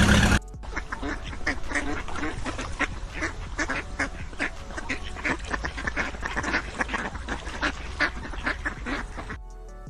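Ducks quacking: many short, overlapping quacks several times a second. They start abruptly as a loud engine sound cuts off, and they give way to music near the end.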